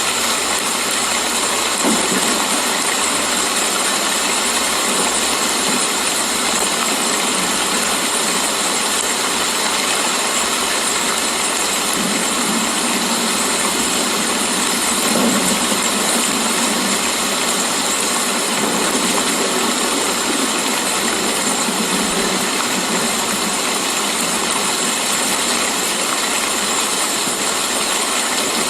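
Steady, even rain: a continuous hiss of falling water with no pauses.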